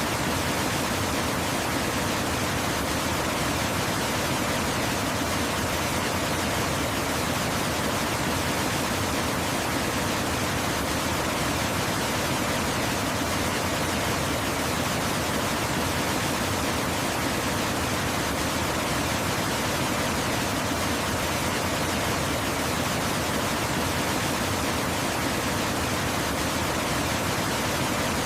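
Waterfall: falling water rushing in a steady, unchanging hiss spread across low and high pitches alike.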